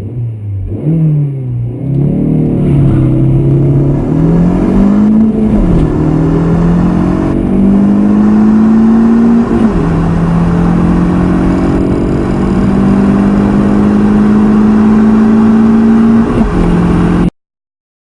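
Small car's petrol engine accelerating hard from a standstill, with the revs wavering at the launch. After that the revs climb steadily in each gear and drop at each upshift, two of them about nine and a half and sixteen and a half seconds in. The sound cuts off suddenly near the end.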